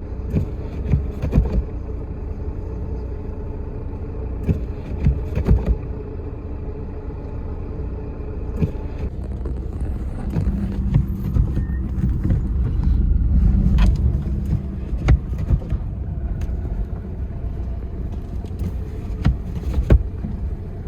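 Force Gurkha 4x4 heard from inside the cabin while driving: a steady low engine and road rumble that swells about two thirds of the way through, with scattered knocks and clicks from the car.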